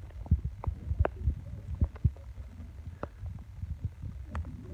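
A steady low hum with irregular dull thumps and sharp knocks, a few a second.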